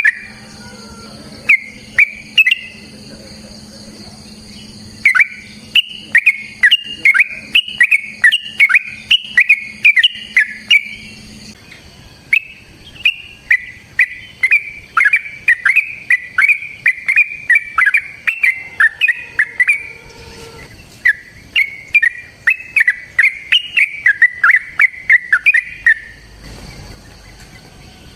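Yellow-vented bulbul (trucukan) singing long runs of rapid, bubbly chirps, each note sliding down in pitch. The runs come in several bursts of a few seconds up to about eight seconds, with short pauses between them.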